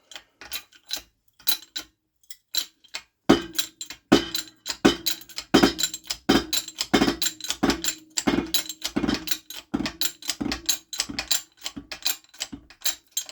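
Press being worked to push a supercharger rotor out of its bearing plate: rhythmic metallic ratchet-like clicking. After a few scattered clicks it settles about three seconds in into a steady run, with a stronger stroke about every 0.7 s.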